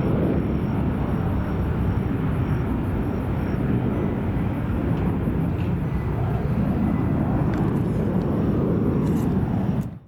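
Steady low rumble of a Boeing 737-800's CFM56-7B turbofan engines, heard from the ground as the airliner climbs away after takeoff. It cuts off abruptly near the end.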